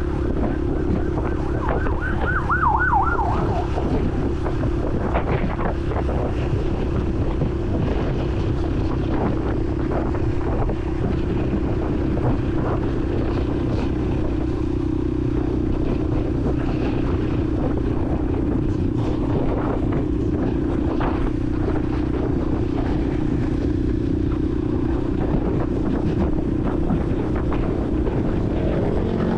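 Honda CRF150L's single-cylinder four-stroke engine running steadily under way, with road and wind noise. About two seconds in, a brief wavering tone sweeps up and down for about a second.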